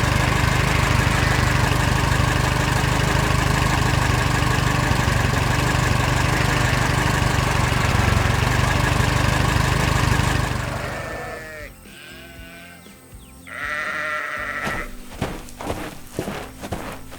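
A loud, steady noise with a strong low hum that fades out after about ten seconds, followed by wavering, bleat-like animal calls and a run of sharp clicks over background music.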